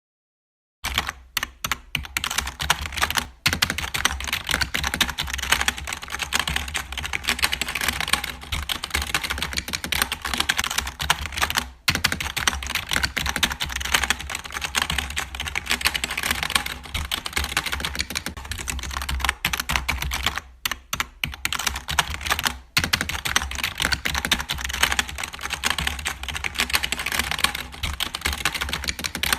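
Pencil scratching rapidly and steadily on paper, a dense run of small scratches and taps with a few short pauses, over a low steady hum.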